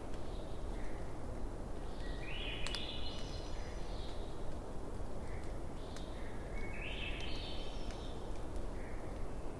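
Campfire burning with a steady hiss and a few sharp crackling pops. Twice an animal call is heard, about a second and a half long and climbing in steps, with soft short chirps repeating in between.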